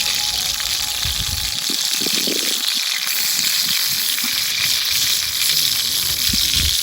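Food sizzling as it fries over a cooking fire, a steady crackling hiss.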